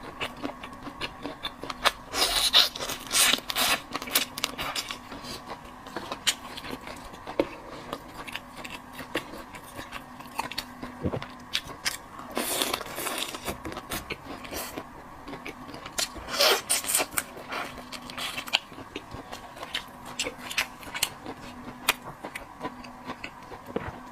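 Close-up eating sounds: many small clicks, bites and scrapes of food and utensils, with three louder bursts of chewing and crunching.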